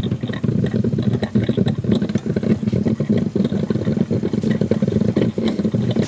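Black & Decker Spacemaker drip coffee maker brewing, its heater boiling water up through the tube with a steady, rapid gurgling crackle. It is running a vinegar-and-water cleaning cycle and still works.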